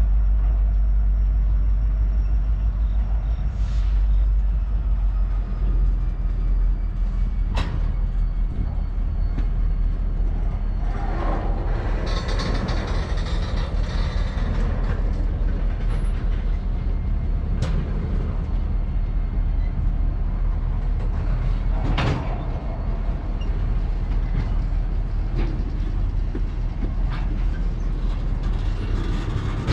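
Freight train of tank cars rolling past at close range: a steady low rumble with a few sharp knocks, and a hissing swell for a few seconds near the middle.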